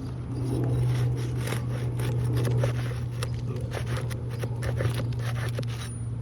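Tool scraping and clicking under asphalt shingles, breaking their sealant strips and working at the roofing nails, in a rapid irregular series of scrapes, over a steady low hum.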